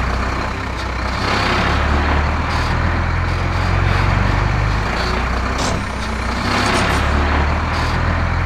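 Heavy truck engine sound effect running steadily with a low rumble, swelling louder twice as the vehicle drives.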